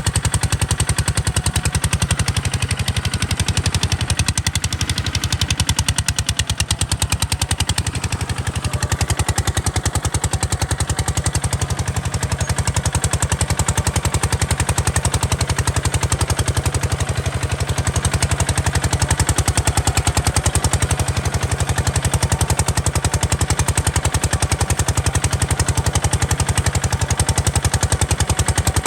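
Kubota RT140 DI single-cylinder diesel engine running steadily, with a rapid, even exhaust beat.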